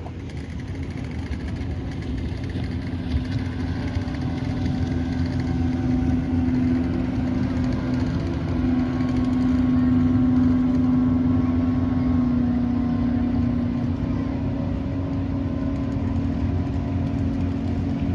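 Boat engine running steadily with a low hum, swelling louder toward the middle and then easing a little.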